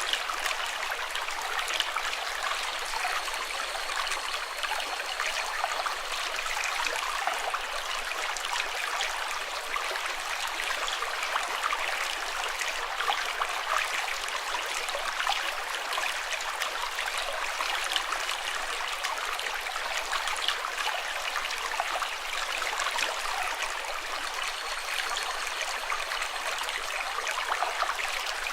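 Running water splashing and trickling steadily, with no break.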